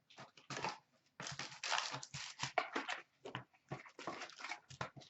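Foil card-pack wrappers being torn open and rustled, with cards being handled: a string of short, irregular crinkling rips.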